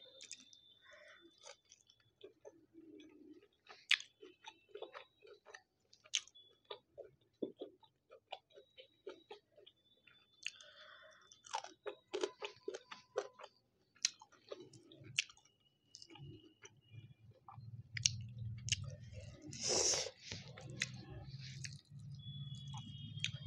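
Close-miked chewing of fried chilli pork: crunching, wet mouth clicks and smacks. A low steady hum comes in near the end.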